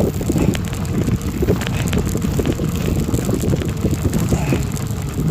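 Wind buffeting the microphone, with a steady rumble and many small rattling clicks, as from moving over a rough gravel forest road.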